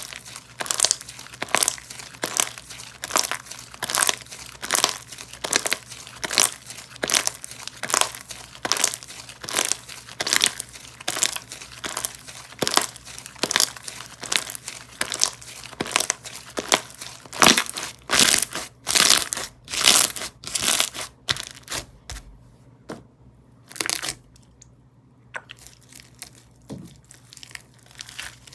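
Slime being squeezed and pressed by hand, a crinkly crackling with each squeeze, repeating at about two a second. It pauses for a few seconds about three quarters of the way through.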